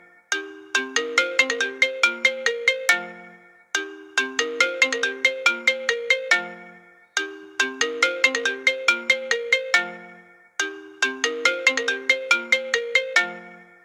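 Phone ringtone for an incoming call: a short, bright melody of quick struck notes ending on a low note, repeated four times with a short gap between.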